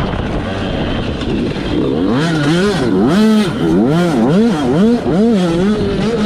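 Yamaha YZ85 two-stroke motocross engine running hard, its pitch rising and falling about five times in quick succession as the throttle is opened and closed, then holding a steadier high note near the end.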